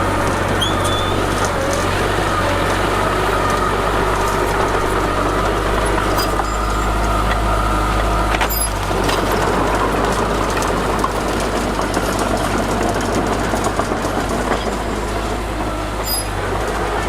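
Heavy diesel earthmoving machinery running steadily under load, with a faint whining tone through the first half and a sharp click about eight and a half seconds in.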